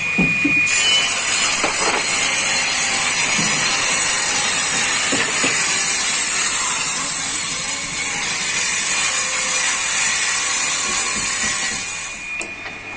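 A steady, harsh, hissing mechanical noise, strongest in the high range, that starts under a second in and fades out near the end.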